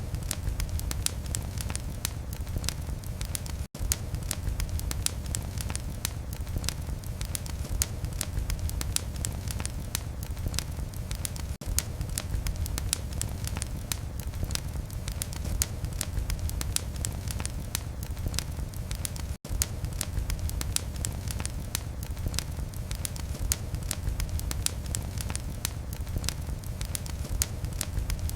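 Wood fire in a fireplace crackling steadily: many sharp pops and snaps over a low rumble of flame. The sound cuts out for an instant twice, about 4 and 19 seconds in.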